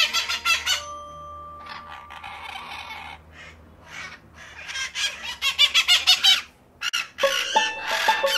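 Bird chirping in several bursts of rapid high notes with short gaps between, a recorded sound effect. Light music comes in near the end.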